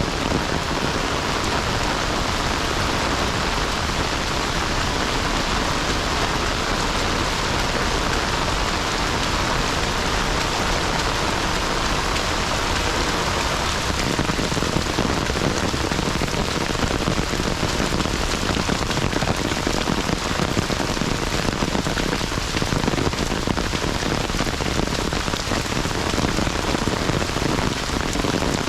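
Heavy rain falling steadily, a dense, even hiss of raindrops on surfaces.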